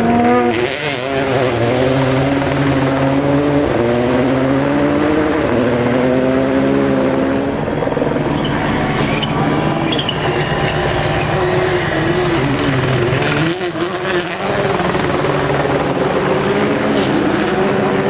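Rally car engine at full throttle, its pitch climbing in steps as it shifts up through the gears. About two-thirds through it drops off briefly with a few crackles, then pulls again.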